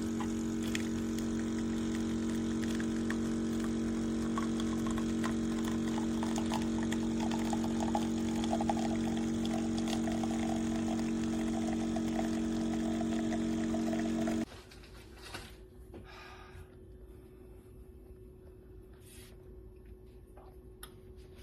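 Automatic espresso machine's pump running as it dispenses coffee, a steady hum that starts suddenly and cuts off about 14 seconds in, followed by a few faint clicks.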